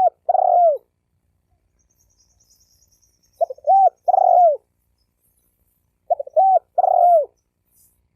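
Spotted dove cooing: repeated phrases of a few short notes followed by a longer coo that falls in pitch at its end, one phrase about every three seconds.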